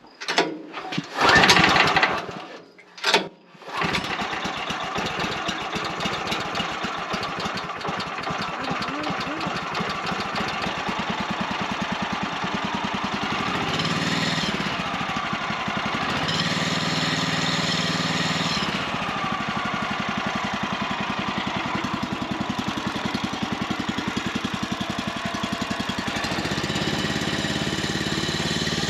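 Small gasoline engine on a portable sawmill being pull-started on low ('turtle') throttle: a couple of short bursts, then it catches about four seconds in and runs steadily.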